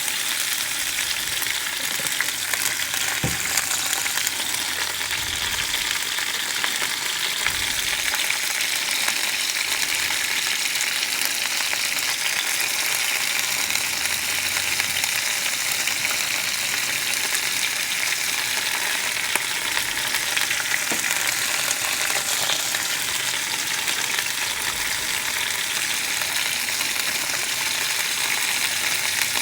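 Sliced onions and bell peppers sizzling steadily in olive oil in a cast iron skillet, with a few faint knocks.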